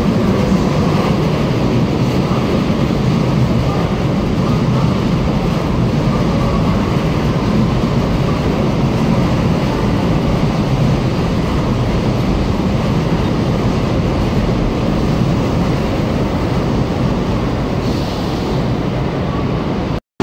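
Manila LRT-1 light-rail train running along the elevated track right beside the platform: a loud, steady rumble of wheels and running gear.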